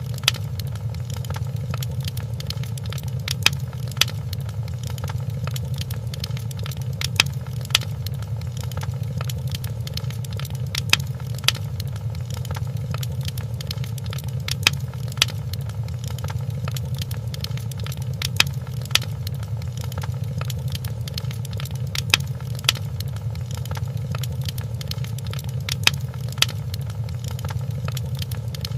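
Fireplace crackling over a steady low rumble of the fire, with small clicks and sharp pops. The loudest are pairs of pops about half a second apart that come back about every four seconds, as in a short repeating loop.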